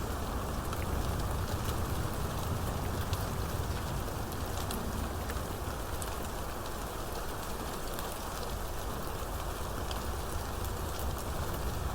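Steady rainstorm: rain falling evenly, with scattered sharp drop ticks and a low rumble underneath.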